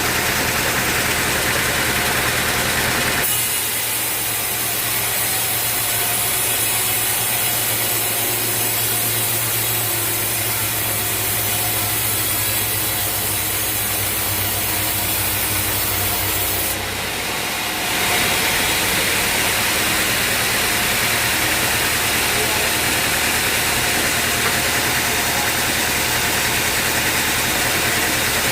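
Band sawmill cutting a teak log: a steady engine hum under the hiss of the blade in the wood. The sound changes abruptly about three seconds in and again a little past the middle.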